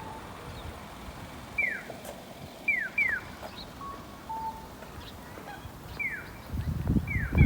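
Birds calling: about six short, sharp notes that each slide down in pitch, with a few softer short whistles between them. A low rumble comes up near the end.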